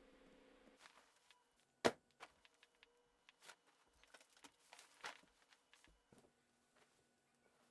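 Faint, scattered light clicks and knocks, the sharpest about two seconds in, over a low steady hum that stops just under a second in and returns about six seconds in.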